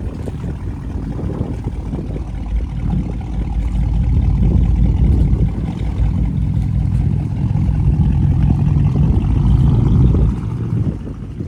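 Porsche engine running, its level swelling and easing with a steadier drone late on.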